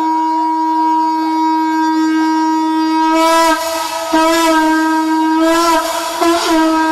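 Conch shell (shankh) blown in one long held note. In the second half the pitch wavers and breaks briefly a few times before settling back to the steady tone.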